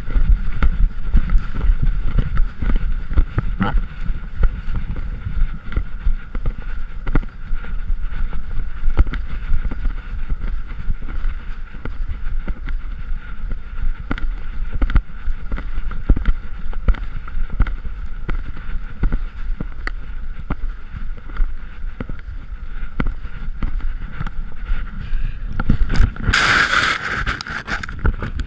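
Handling noise from a GoPro strapped to a moving wolf: a steady low rumble of wind and the camera rubbing against the animal, dotted with small knocks and bumps, with a louder rushing burst near the end.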